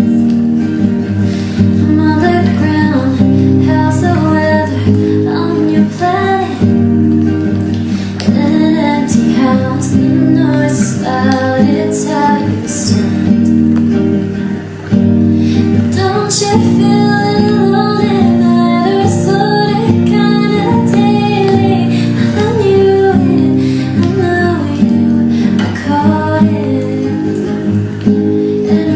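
A woman singing a song to acoustic guitar accompaniment, with a brief drop in loudness about halfway through.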